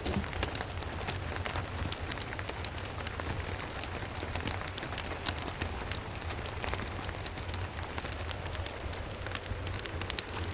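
Steady rain with a crackling fireplace: a constant hiss peppered with many sharp little clicks, over a low steady rumble.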